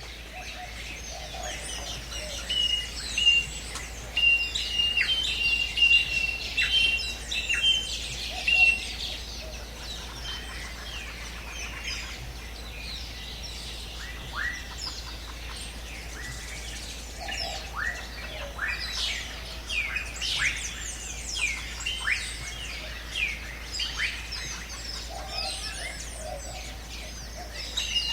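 Several birds singing and chirping together: many short down-sweeping chirps and trills, with one bird repeating a steady whistled note during the first third, over a steady background hiss.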